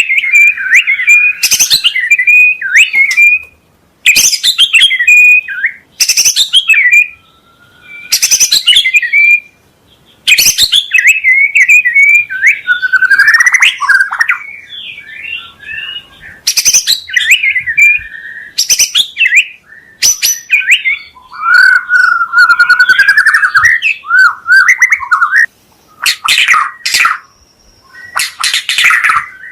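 White-rumped shama (murai batu) singing loud, varied phrases of whistles and warbles, broken by sharp, harsh 'shot' notes and with short pauses between phrases.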